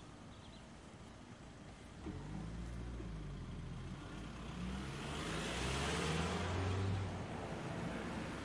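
A car engine starts suddenly about two seconds in and runs unevenly. It is revved up and gets louder through the middle, then settles back near the end.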